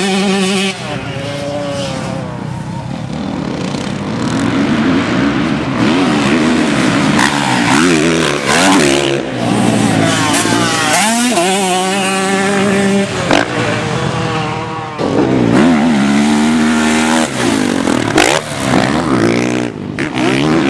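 Motocross dirt bike engines running hard on the track. The pitch climbs under throttle, drops back at shifts and roll-offs, and this repeats over and over.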